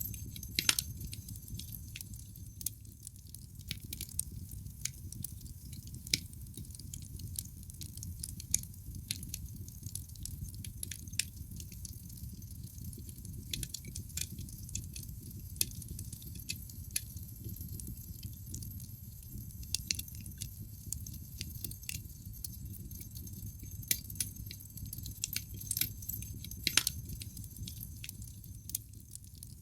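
Wood fire burning in a fireplace: irregular crackling and sharp pops of burning logs over a steady low rumble of the flames.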